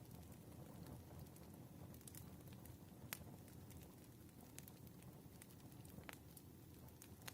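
Wood fire burning: a faint low rumble of flames with scattered sharp crackles and pops, the loudest pop about three seconds in.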